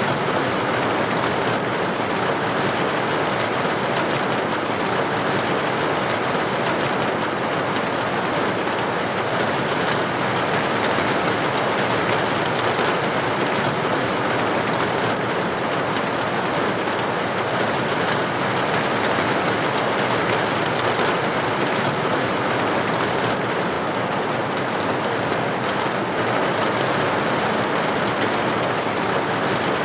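Steady rain pattering on a window pane, an even continuous hiss.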